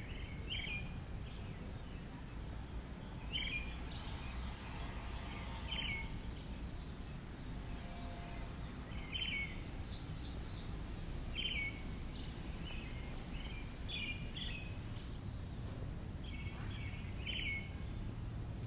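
A bird gives short falling chirps every two to three seconds over a steady low rumble of background noise.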